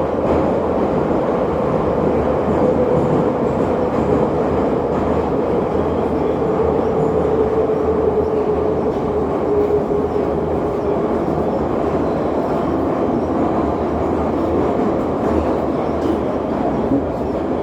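Train running along the track: a steady rumble, with a faint hum that drifts slowly lower through the first half.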